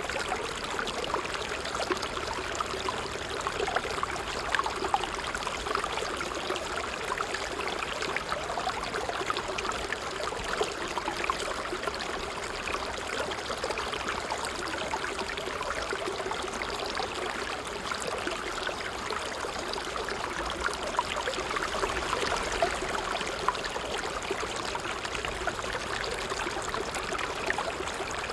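Water trickling steadily, a continuous babble of small flickering splashes with no pauses.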